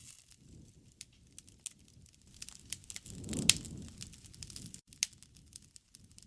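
Wood fire crackling, with frequent sharp pops over a low rush of burning. The rush swells around the middle, and one louder pop comes about three and a half seconds in.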